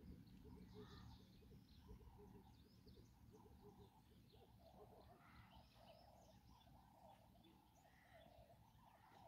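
Near silence: faint outdoor bird calls, many short chirps and trills, over a low, even background noise.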